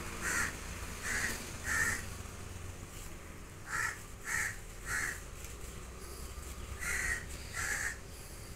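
A bird calling outdoors in short repeated calls, in runs of three about half a second apart, with pauses of a couple of seconds between runs.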